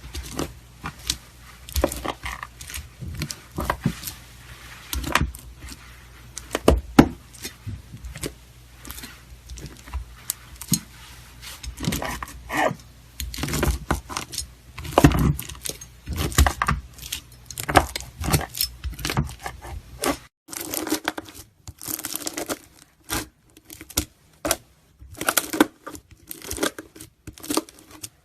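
Crunchy slime being cut with a knife, giving dense runs of sharp crackles and pops. A low background hum drops out about twenty seconds in, where the clip changes.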